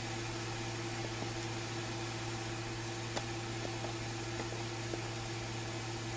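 Steady low electrical hum with an even hiss behind it, unchanging throughout, and a few faint light clicks.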